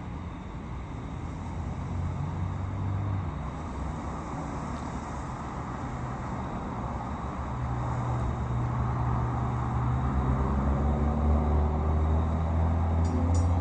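Low, steady vehicle engine rumble with a deep hum, growing louder over the second half. A quick, regular high ringing starts near the end.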